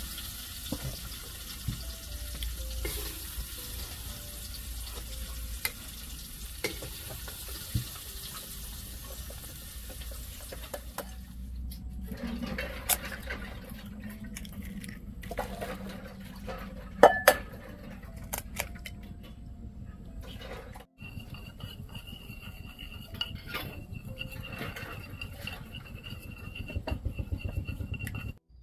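Cooking sounds: utensils clinking and scraping against pots and dishes, with scattered sharp knocks and a steady hiss through the first part.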